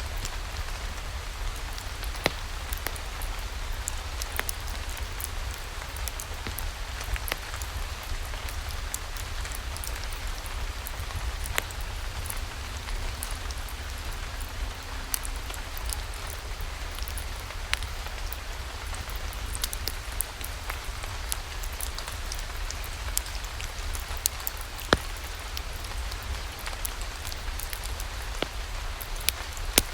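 Steady rain falling, an even hiss over a deep low rumble, with scattered sharp clicks and drips throughout.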